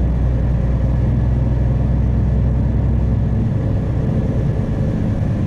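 Semi truck's diesel engine running steadily while driving, a continuous low drone heard from inside the cab.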